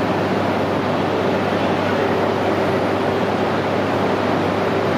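Steady whooshing hum of a standing E3 series shinkansen's blowers and auxiliary equipment, a few low held tones under an even rush of noise, with no change in pitch or level.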